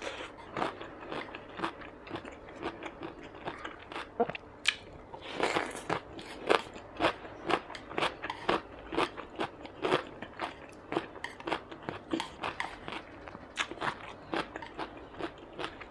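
A person chewing a mouthful of rice and grilled Chinese sausage close to the microphone: a steady run of short smacking clicks, about two or three a second.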